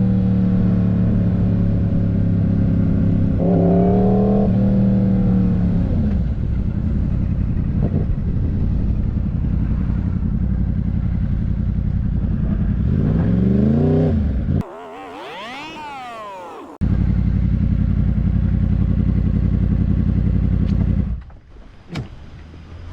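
Motorcycle engine running steadily under way, revving up twice. For about two seconds midway the engine sound drops out and a wavering high whine takes its place, and near the end the engine sound falls away.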